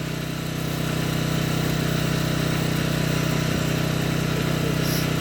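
An engine running steadily at idle: a constant low drone that does not change in pitch or level.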